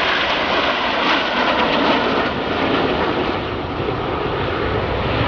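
Jet aircraft engine noise, a loud, even roar.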